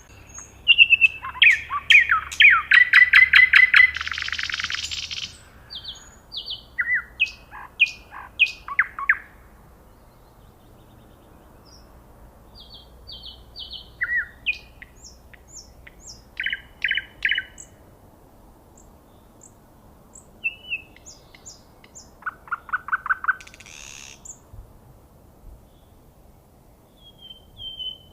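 Nightingale singing in separate phrases with pauses between them. A loud run of fast repeated notes comes about a second in, followed by shorter phrases of single notes, and another quick run of repeated notes comes near the end.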